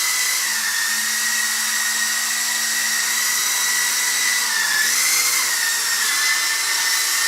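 Helimax AXE EZ RC helicopter's electric motor and rotor running in flight: a steady high whine whose pitch dips and comes back briefly about five seconds in as the throttle changes.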